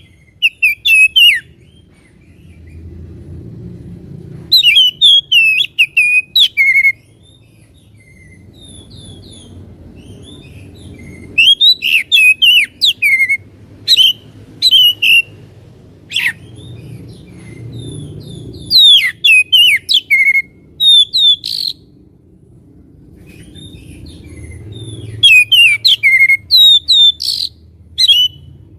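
Oriental magpie-robin (kacer) singing: about six loud bursts of rapid, sharp whistled notes, each lasting one to four seconds, with pauses of a few seconds between them. A faint low rumble runs underneath.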